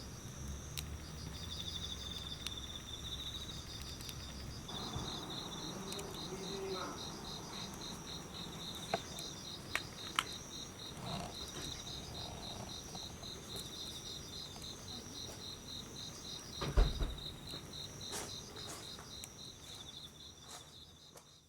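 Autumn insects, crickets among them, chirping in steady rapid pulsed trills, with a few sharp crackles from a small wood fire. A louder thump comes about 17 seconds in, and the sound fades out at the end.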